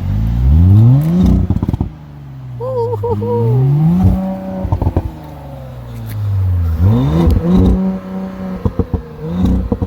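2019 Audi S5 Sportback's turbocharged V6 engine being revved three times, each rev climbing steeply in pitch and then falling back toward idle. Each rev is followed by a short run of exhaust crackles as the throttle closes.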